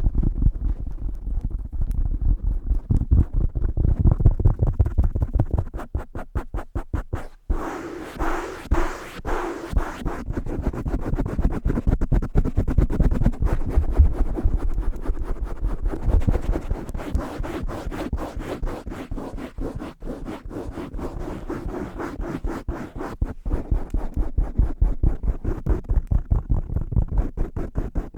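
Fast, aggressive fingertip tapping on a microphone cover over a Blue Yeti microphone, picked up close as a rapid run of dull, bassy thuds. The tapping breaks off briefly about seven seconds in, then resumes with a brighter, scratchier edge for a couple of seconds.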